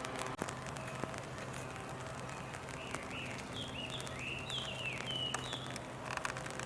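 A bird sings a short run of quick, sliding chirps for about three seconds in the middle, over a steady low hum and scattered small ticks.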